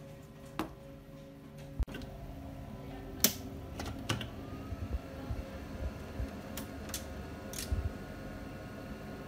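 Scattered sharp clicks and taps of hand work at an electronics bench, over a steady low hum; about four seconds in a faint whine rises and then holds steady.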